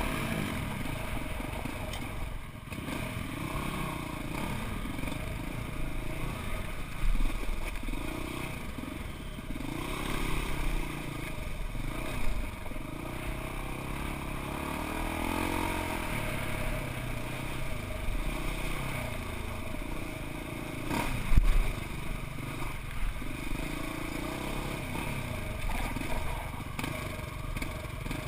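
Arctic Cat Wildcat side-by-side's engine running and revving up and down as it crawls over rough ground, with a few sharp knocks and clatter from the vehicle being jolted.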